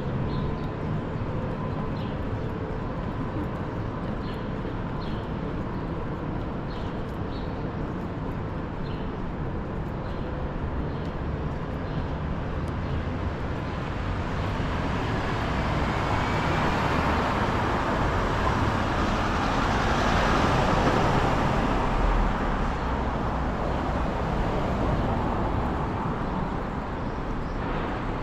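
Road traffic noise: a vehicle passes, swelling to its loudest about twenty seconds in and then fading. Short high chirps come through the steady rumble in the first half.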